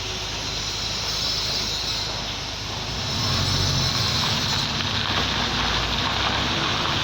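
A heavy vehicle's engine rumbling with road noise, growing louder about three seconds in.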